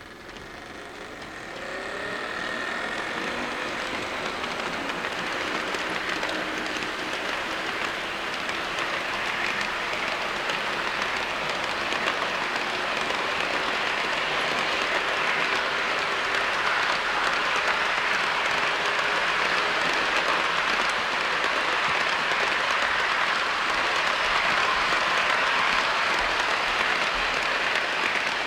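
KATO model train, two DD51 diesel locomotives double-heading container wagons, running along the track with a steady rolling rattle of small wheels on rail. It grows louder over the first few seconds and then holds, with a faint motor whine shifting in pitch early on.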